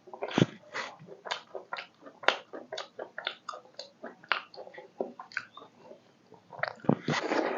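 Close-miked eating sounds: a person chewing chicken curry with rice, a rapid run of wet smacking clicks with a louder, denser burst near the end.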